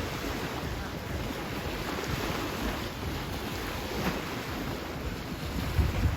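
Wind buffeting the microphone over a steady wash of ocean surf, with a stronger gust near the end.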